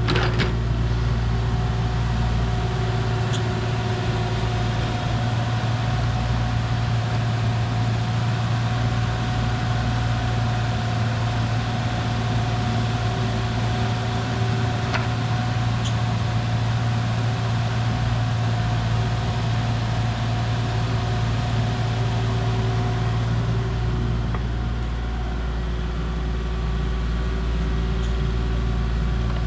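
A vehicle engine running steadily: an even low drone with a few faint ticks over it.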